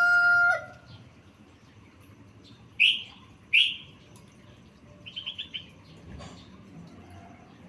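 Yellow-vented bulbul (trucukan) calling: two loud sharp notes about three seconds in, then a quick run of about six short notes. The tail of a rooster crow fades out right at the start.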